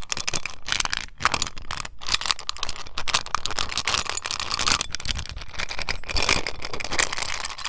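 Rapid tapping on an Eclipse mint tin close to the microphone: a dense, rattly run of clicks that cuts off abruptly at the end.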